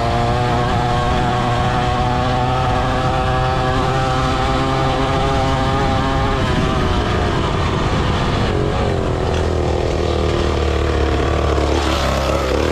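Pit bike engine running at steady revs, then easing off to a lower pitch about seven seconds in.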